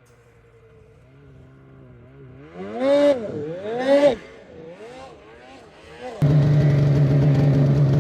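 Snowmobile engines: a distant sled revs up and down twice, then about six seconds in a much louder, close snowmobile engine comes in suddenly and runs steadily.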